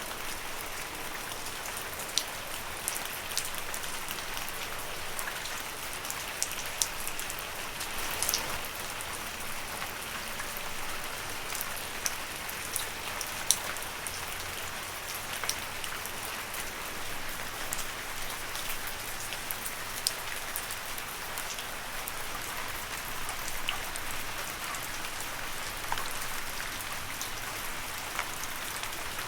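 Steady rain falling on leaves, an even hiss with frequent sharp drops striking close by.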